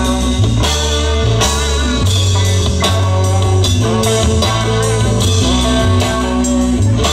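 Live rock band playing an instrumental passage: electric guitar over bass and drum kit, with a steady beat.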